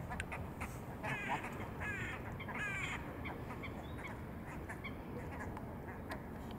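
A bird calls three times in quick succession, starting about a second in, with a caw-like call, over a steady low background noise.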